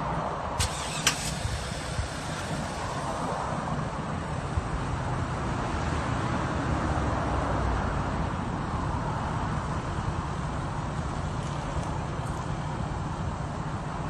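Chevrolet SUV's engine running steadily, swelling slightly midway. Two sharp clicks sound about a second in.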